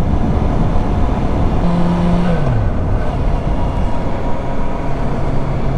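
Honda CB650F inline-four motorcycle engine running on the road under heavy wind rush. Its note drops a little past two seconds in and then holds steady at a lower pitch.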